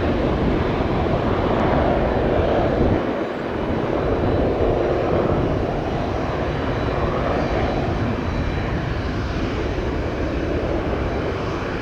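An Embraer E-175 regional jet's twin turbofan engines at takeoff power as it departs, a loud, steady jet noise with a heavy low rumble.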